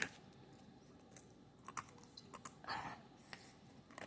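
Faint crunching and chewing of a spicy chip: a few short crunches about two seconds in, a slightly longer one just after, then a last click near the end.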